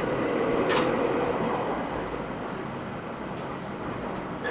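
Cabin running sound of a JR E127 series 0 electric multiple unit, rumbling along with a hum that fades after the first second or so, as the train slows for a station. Two short sharp clicks, about one second in and again near three and a half seconds.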